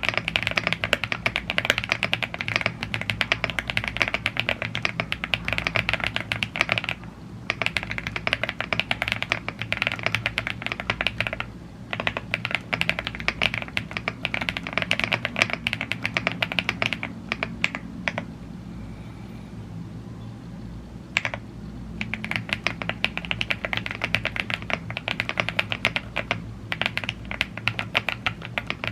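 Typing on a YUNZII AL75 gasket-mounted aluminium mechanical keyboard with Blue Grey tactile switches and double-shot PBT keycaps. Fast runs of keystrokes are broken by short pauses; in the middle the typing thins out to a few seconds with a single key press, then fast typing resumes.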